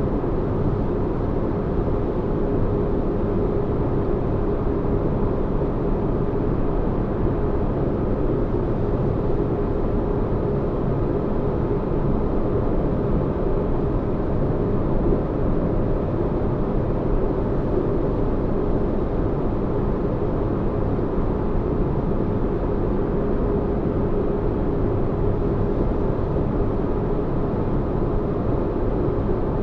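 Spaceship-interior ambience: a steady, unchanging deep rumble with a faint hum tone held through it.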